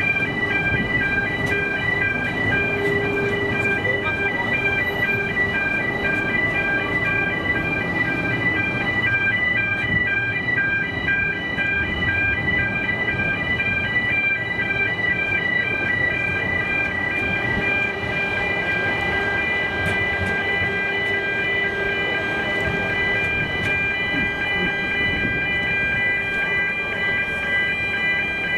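A steady, finely pulsing electronic alarm tone sounds without a break, over the rumbling noise of a narrow-gauge steam train.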